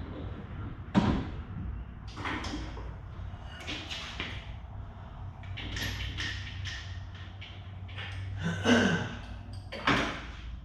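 A series of irregular knocks and thumps from work being done, the loudest near the end, over a steady low hum.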